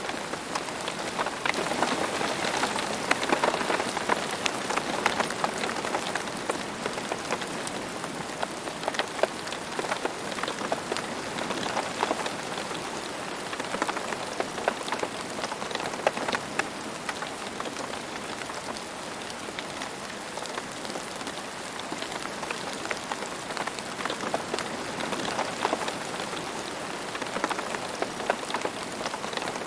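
Steady rain falling on a surface, a continuous hiss dotted with many individual drop ticks, swelling slightly now and then.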